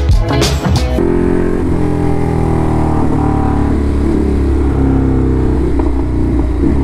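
After a short musical sting, a Ducati Hypermotard SP's L-twin engine runs steadily while the bike rides along at highway speed, its pitch wavering slightly.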